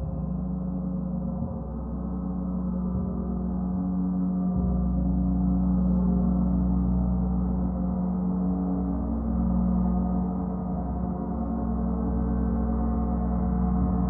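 Gong played as a continuous wash: a dense, low, sustained drone of many overlapping tones that swells over the first few seconds and then holds.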